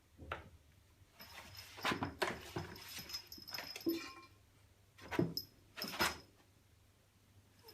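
White Persian cat making short sounds in a series of bursts, with a pause in the middle and two more bursts after it.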